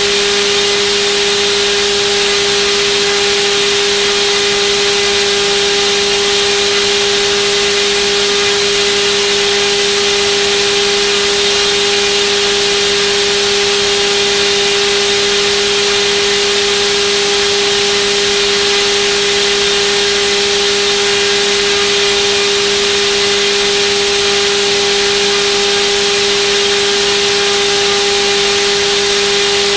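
Turnigy D2826/10 1400kV brushless outrunner motor spinning a propeller at a constant speed on a thrust-test stand: a steady, unchanging whine over a rushing hiss of air.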